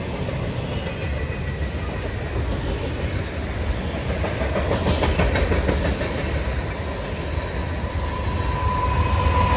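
Train rolling past on the rails: a steady rumble of wheels and cars that grows louder toward the end.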